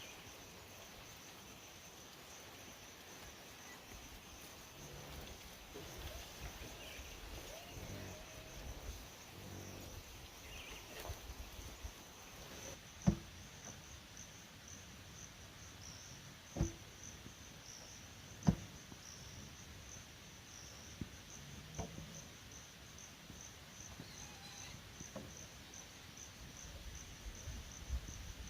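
Insects trilling steadily at a high pitch, a pulsing outdoor chorus, with three sharp knocks near the middle and a few fainter ones later.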